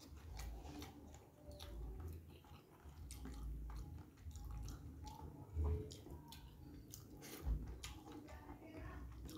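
A person chewing food close to the microphone, with many small wet mouth clicks and smacks. There are two dull thumps, one a little past halfway and one later on.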